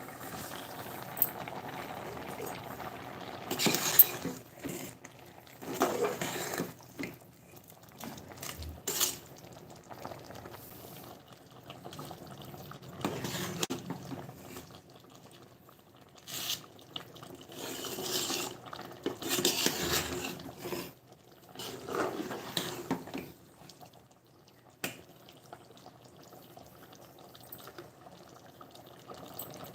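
Kitchen work sounds: water running and pouring in short spells of a second or two, with now and then a sharp clink of dishes or pots.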